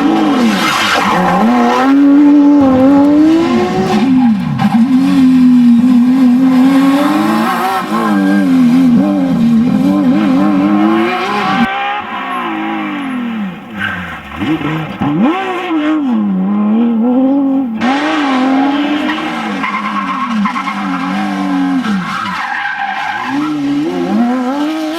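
Porsche 911 GT3 RS rally car's flat-six engine revving hard, its pitch climbing and dropping over and over as it accelerates, shifts and brakes through a stage. Between about twelve and eighteen seconds in, the sound turns duller, without its high end.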